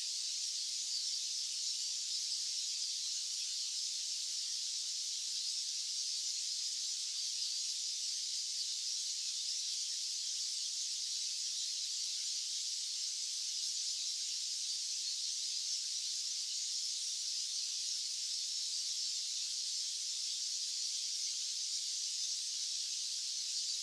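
White-noise track: a steady, high-pitched hiss with no rise, fall or breaks.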